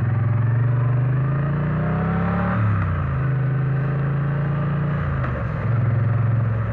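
Triumph Bonneville T100 parallel-twin engine under way, rising in pitch as it pulls through the revs for about two and a half seconds, then dropping at a gear change. It holds a steady note, then drops again at a second upshift about five seconds in.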